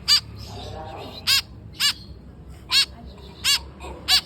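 White-breasted woodswallow (kekep babi) giving short, harsh calls, six in about four seconds at uneven spacing. Each call is a brief note that rises and falls in pitch.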